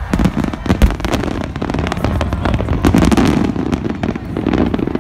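Fireworks display: shells bursting in a rapid, dense run of sharp cracks and pops, with a deep boom just under a second in.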